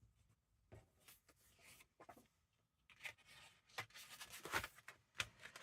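Paper pieces being handled: soft rustling and sliding of paper on paper, with a few light taps, busiest in the second half.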